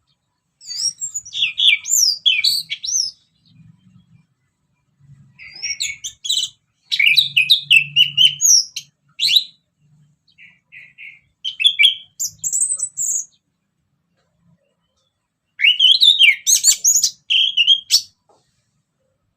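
Orange-headed thrush singing in four bursts of quick, varied whistled phrases with rising and falling glides and rapid chattering notes, with short pauses between bursts.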